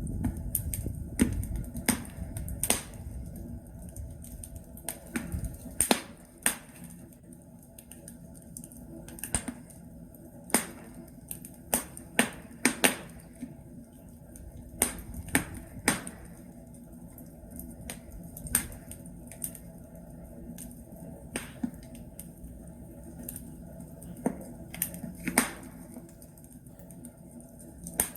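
Burning logs crackling in a fireplace: irregular sharp pops and snaps over a low rumble of the fire, the rumble stronger in the first few seconds.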